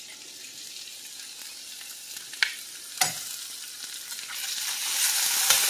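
Diced potatoes frying in hot olive oil in a stainless skillet, sizzling as butter is scraped in off a utensil, with two sharp clicks of the utensil against the pan. The sizzle grows louder near the end.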